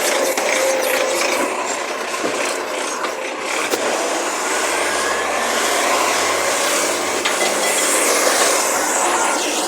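Recycling garbage truck running steadily, with a faint high whine that slowly rises and then falls.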